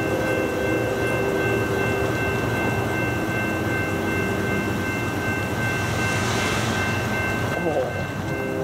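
Approaching CSX freight train led by ES44DC locomotive #5407, a steady rumble throughout; its air horn chord fades out in the first second and sounds again at the very end.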